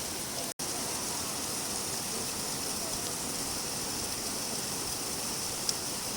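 Steady rainfall, an even hiss without a break in rhythm. The sound cuts out for an instant about half a second in, then resumes unchanged, with a faint single tick near the end.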